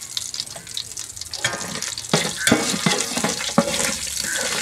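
Cashews, raisins, whole spices and turmeric sizzling in hot dalda and oil in a metal biryani pot, stirred with a wire mesh strainer. The stirring strokes get louder from about one and a half seconds in.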